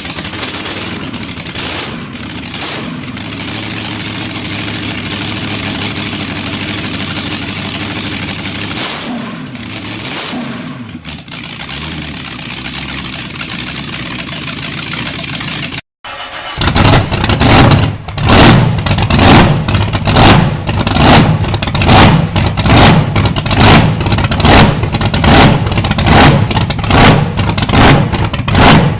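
A large engine running, its revs rising and falling. After a sudden cut, a louder large engine runs with a slow, even chugging beat of a little more than one stroke a second.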